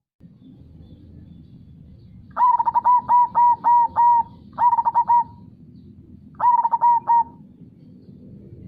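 Zebra dove (perkutut) cooing in three phrases: a run of about six quick, even notes, then two shorter phrases of three or so notes, over a steady low background hiss.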